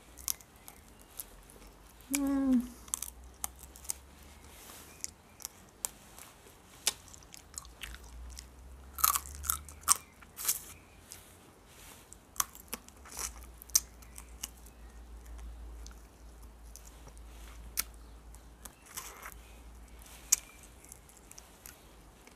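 Close-miked biting and chewing on a fried chicken wing: crisp skin and gristle crunching in scattered sharp clicks. A short hum is voiced about two seconds in.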